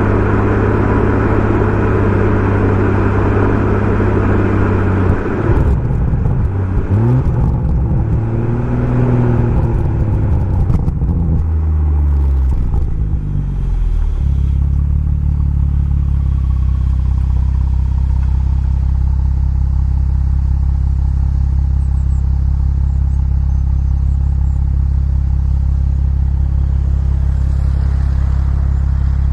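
BMW M140i's 3.0-litre turbocharged straight-six running through a Remus aftermarket exhaust. It holds a steady engine speed at first; from about five seconds in the revs rise and fall several times, with a few short sharp cracks. After about fourteen seconds it settles into a steady low drone.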